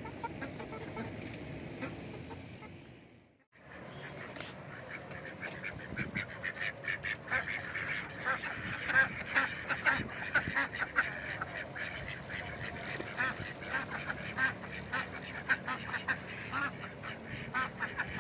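A flock of domestic ducks quacking and honking, many calls overlapping in quick succession. The sound fades out briefly about three seconds in and comes back busier.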